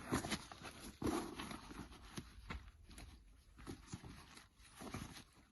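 Irregular rustling and soft knocks from camping gear being handled and set down.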